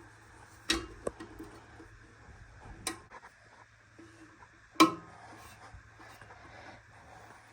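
A few sharp knocks and clicks of parts being handled, the loudest a bit under five seconds in, over a faint steady hum. They fit the washer's sheet-metal back panel being handled and clipped into place.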